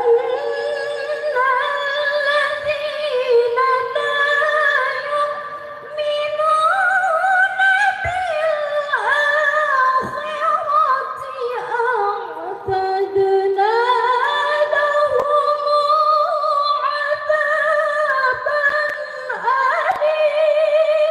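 A Quran reciter's solo voice in melodic tilawah, holding long ornamented phrases that slide and waver in pitch, with brief pauses for breath about six and thirteen seconds in.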